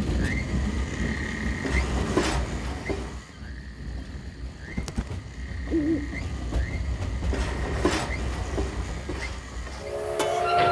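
Cartoon train and machinery sound effects: a steady low rumble under a high mechanical whine that briefly rises every second or two, with a few sharp clanks.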